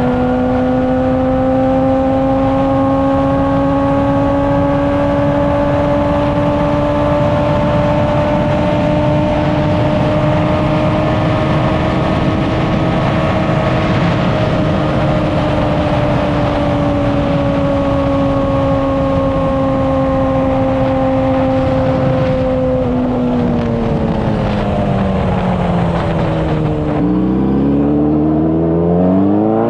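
Honda CBR600RR inline-four sport bike engine and exhaust at a high, steady highway cruise under loud wind rush. The pitch rises slightly and then eases. Near the end the revs drop away, then climb steeply as the bike accelerates again.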